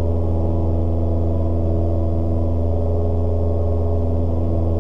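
Cessna 172S's four-cylinder Lycoming engine and propeller droning steadily in the climb, heard through the cockpit intercom as a low hum with a stack of steady tones above it.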